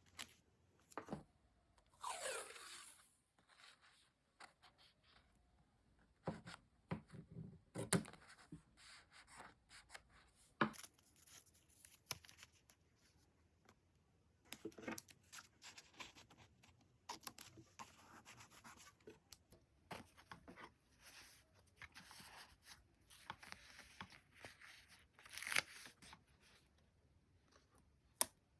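Paper, stickers and tape being handled at a desk: short tearing and peeling rips, a falling squeaky rip about two seconds in, and scattered light taps and rustles.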